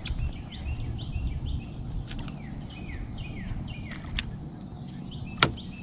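A bird calling over and over in short falling chirps, about two or three a second, over a low background rumble. A sharp click about five and a half seconds in is the loudest sound, with a fainter click a little after four seconds.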